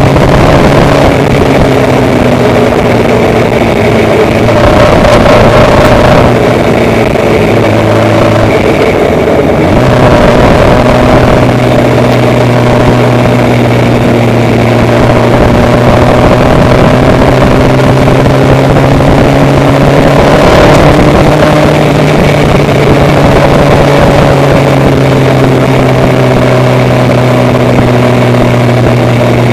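A vehicle's engine running steadily under loud road and wind noise, its hum drifting slightly in pitch as the speed changes.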